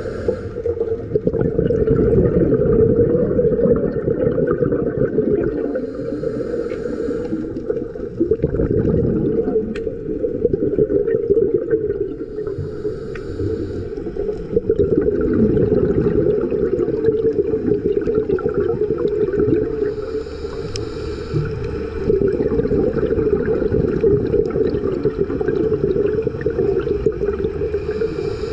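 Underwater sound of scuba diving: a muffled, steady rush of water with a bubbling hiss from the diver's regulator about every seven seconds, the rhythm of slow breathing.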